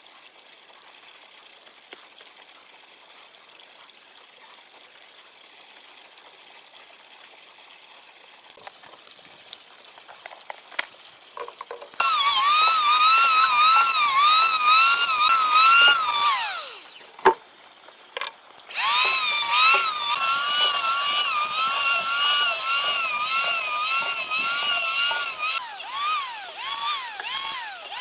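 Chainsaw cutting wood: a high whine whose pitch dips and recovers over and over as the chain bites. It follows a quiet stretch with a few small knocks. About two-thirds of the way in it winds down with a falling pitch, then revs back up and keeps cutting.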